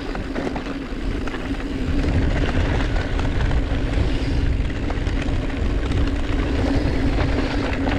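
Mountain bike rolling along a dirt trail: wind buffeting the microphone with a deep rumble, and the tyres and drivetrain giving a steady hum. It grows louder about two seconds in.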